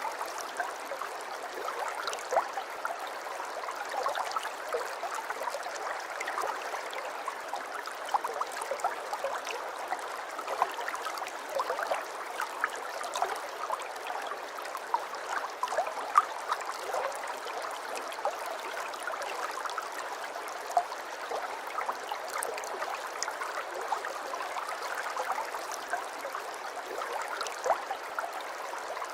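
Aquarium water bubbling and trickling steadily: a dense, unbroken run of small pops and splashes with no change.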